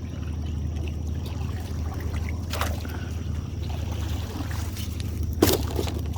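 A boat motor idles steadily under a light trickle and splash of water. There is a knock about two and a half seconds in and a louder one near the end.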